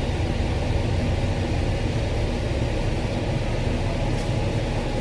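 Dennis bus running on the road, heard from inside the cabin: a steady low engine and road rumble with a hiss of tyre and air noise.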